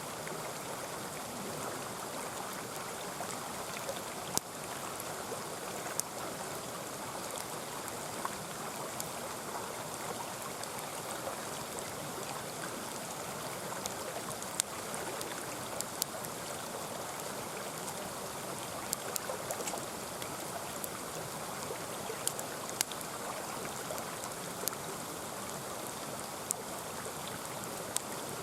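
Mountain stream running steadily, with a wood campfire giving single sharp crackles every few seconds.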